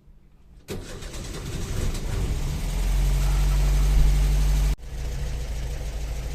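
Volkswagen T2 bus's air-cooled flat-four engine running. It comes in suddenly about a second in, grows louder and holds a higher, steady running sound for a couple of seconds, then drops suddenly to a steady idle.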